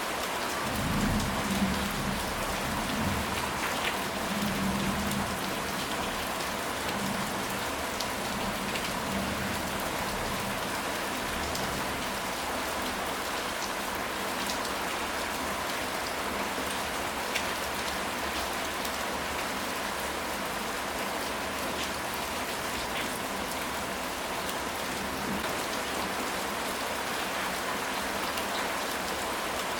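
Steady, dense rain falling, with many small drop impacts. Low rumbles come in during the first few seconds.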